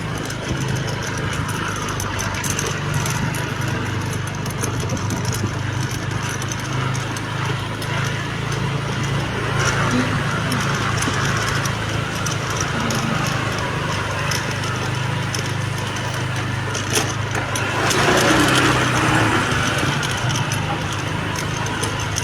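A vehicle engine running steadily on the move, with a constant low hum under road and wind noise. About eighteen seconds in, the sound briefly swells louder.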